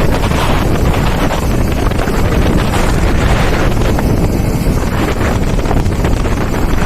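Heavy wind rushing over the microphone on a moving motorbike, a loud steady roar that covers any engine sound.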